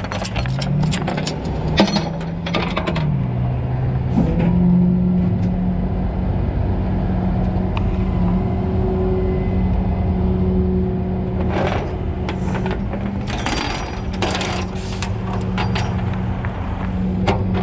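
A motor running steadily, its pitch rising and falling in the first few seconds, with scattered metallic clicks and rattles.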